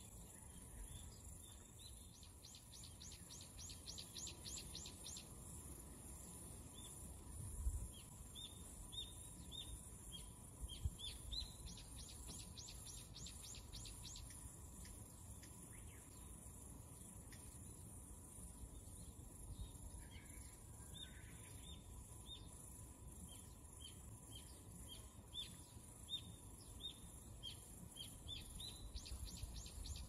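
Faint chirping of small birds, with repeated runs of quick, high trilled notes between the chirps. A couple of low bumps come about eight and eleven seconds in.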